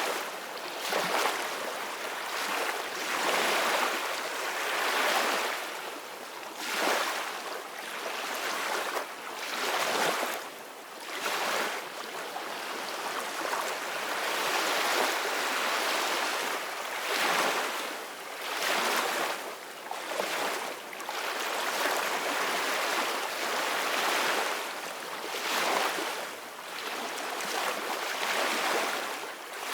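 Ocean waves breaking and washing on a beach, a steady surf that swells and eases every few seconds.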